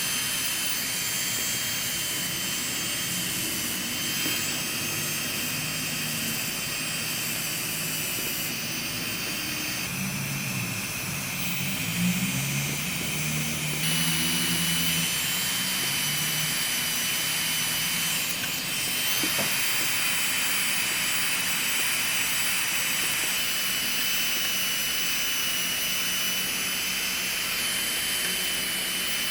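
Electric foot-care grinder running steadily with a high whine over a hiss while a plantar corn is worked down. The whine drops and steps up a few times.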